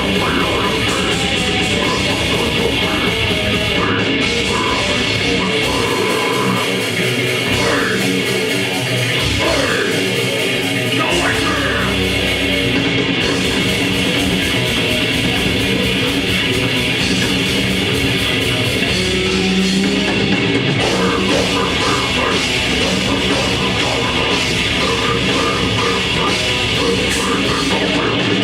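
A grindcore band playing live: heavily distorted guitars, bass and drums at full volume, in a track with eastern-sounding motifs. The low end drops away for a few seconds about a quarter of the way in, then the full band comes back in.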